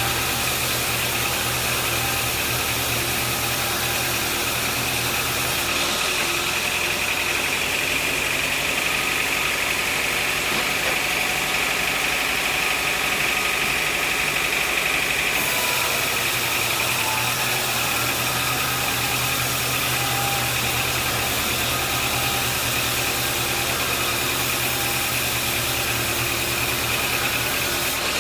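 Sawmill machinery running steadily: an engine hum under a steady high whine. The low hum drops about six seconds in and comes back strongly around seventeen seconds.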